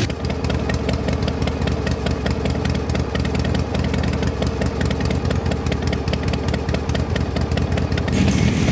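Motorcycle engine idling steadily, with a rapid, even pulse of firing strokes.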